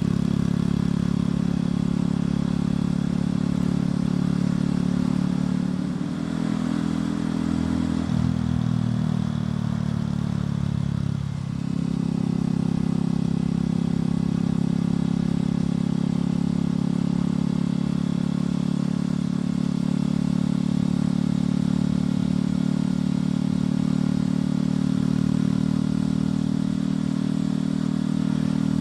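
Motorcycle engine and exhaust running steadily while riding. The pitch drops about six seconds in as the revs fall, then comes back up sharply after about eleven seconds and holds steady.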